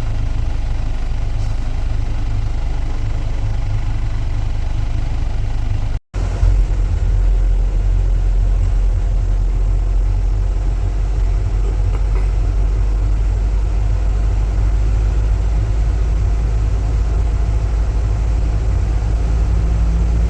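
Steady low rumble of a car's engine and road noise. The sound drops out for an instant about six seconds in and then carries on.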